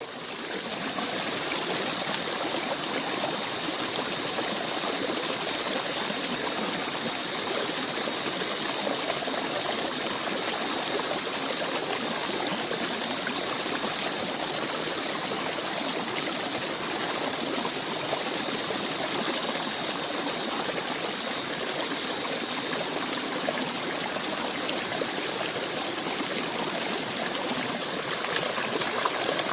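Flowing water, like a stream, giving a steady even rush that fades in over the first second.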